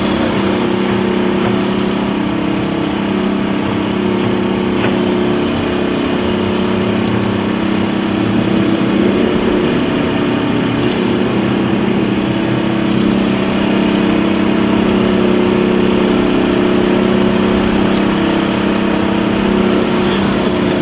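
Heavy diesel demolition machinery running steadily, its engine swelling a little louder about eight seconds in and again near the middle.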